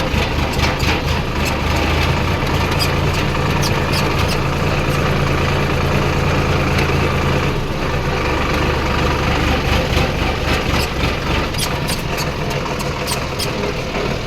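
Tractor's diesel engine running steadily with a low hum, with scattered sharp clicks and rattles over it.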